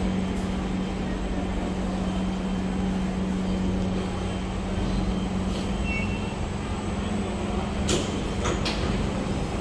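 Steady, constant-pitched hum and low rumble of an SMRT C651 train standing at the platform, with a few short clicks about eight seconds in.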